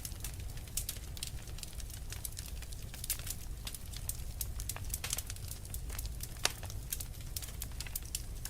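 Wood fire crackling: frequent irregular pops and snaps over a steady low rumble of the flames.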